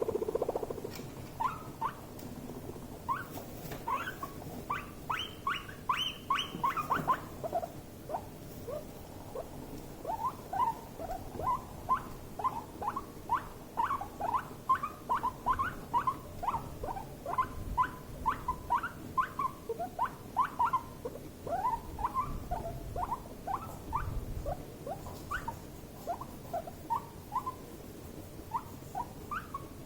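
Guinea pigs squeaking in short, rapid calls, about two or three a second, with higher, louder calls around four to seven seconds in: stress squeaking between two guinea pigs.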